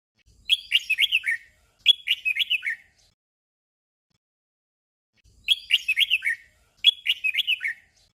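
Red-whiskered bulbul singing a short phrase of quick whistled notes twice in a row, the doubled ("เบิ้ล") song style, and then the same doubled phrase again about five seconds later.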